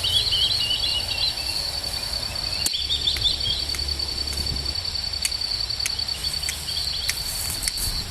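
Insects trilling steadily in a high, pulsing tone, with birds chirping briefly at the start and again about three seconds in, and a few scattered clicks.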